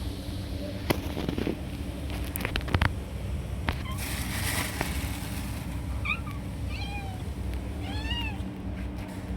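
Cat meowing three times in the second half, short arched calls about a second apart, over a steady low hum, with a few sharp knocks earlier.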